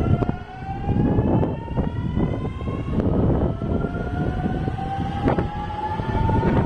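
JR Shikoku 6000 and 7000 series electric train pulling away from a station: the inverter-driven traction motors give a whine that rises steadily in pitch as the train accelerates, with a second rising tone joining about three seconds in. Under it runs a low rumble with repeated sharp clacks from the wheels on the track.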